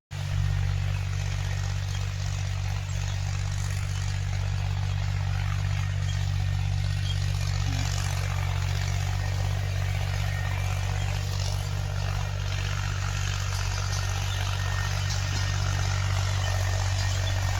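Mahindra tractor's diesel engine running steadily at a constant speed, a deep even drone with no revving, just after its fuel injection pump was rebuilt.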